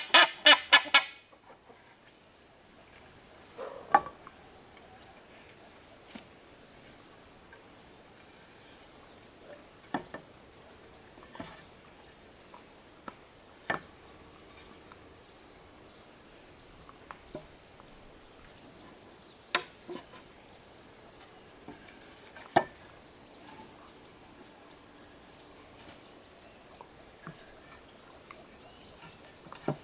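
Steady, high-pitched insect chorus of crickets chirring, with scattered sharp knocks every few seconds and a quick run of loud strikes in the first second.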